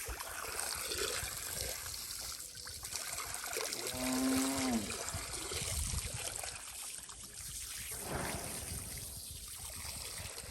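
Water trickling and pouring steadily. About four seconds in, a brief voice-like hum stands out above it.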